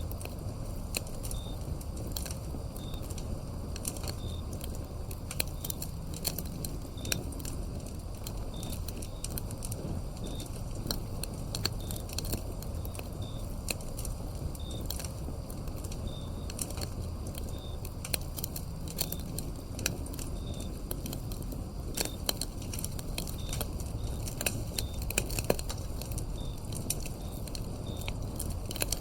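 Wood fire crackling and popping over a low rumble of flames, with crickets giving short high chirps about once a second.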